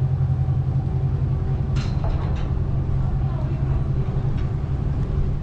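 Steady low engine drone of a vehicle, with a brief clatter about two seconds in.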